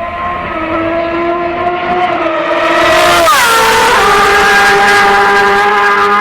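Motorcycle engine and exhaust under load, revs climbing, then changing up a gear about three seconds in, its note dropping sharply and carrying on steadily at the lower pitch.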